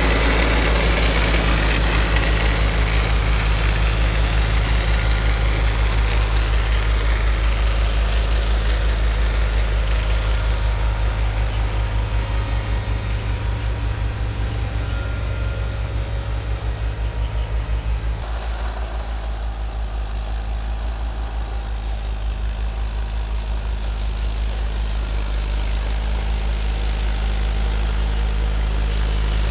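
Tractor engine running steadily with a low, pulsing drone; the sound shifts slightly about 18 seconds in.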